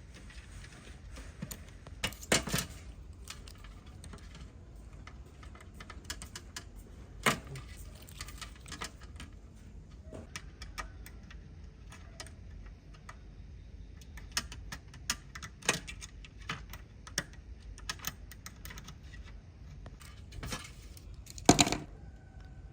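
Irregular light clicks and taps of small hard objects being handled, with a few louder knocks, the loudest near the end.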